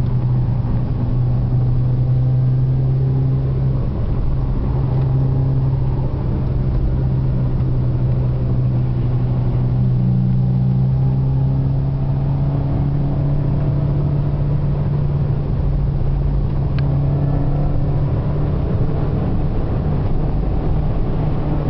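Car engine and road noise heard from inside the cabin while it is driven on the circuit: a loud, steady low drone whose pitch shifts slightly a few times.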